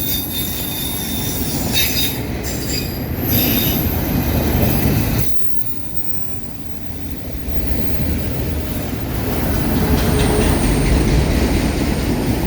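Freight train auto rack cars rolling past close by: a steady rumble of steel wheels on rail, with high-pitched wheel squeal in the first few seconds. The sound drops suddenly about five seconds in, then builds again as more cars pass.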